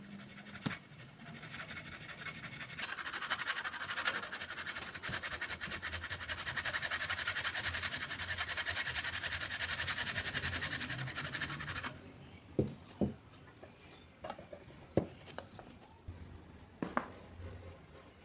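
A knife being sharpened: a rapid, steady rasping scrape lasting about ten seconds, then stopping, followed by a few separate clicks and taps.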